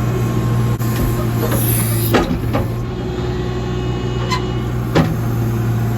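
John Deere backhoe's diesel engine running steadily under work, with a few sharp knocks about two and five seconds in.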